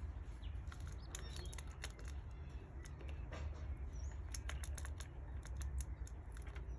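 Canaries moving about: a scatter of quick, sharp clicks and ticks with a few faint high chirps, over a steady low hum.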